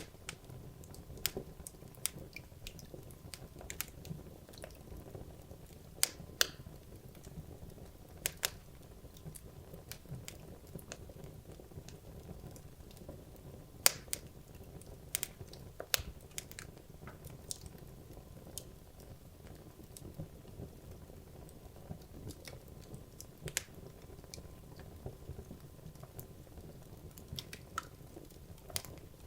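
Wood logs burning in a fireplace, crackling with irregular sharp pops and snaps over a low steady rumble of the flames.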